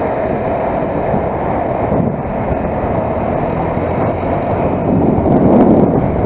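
Motorcycle underway: engine running steadily under a rush of wind noise, a little louder near the end.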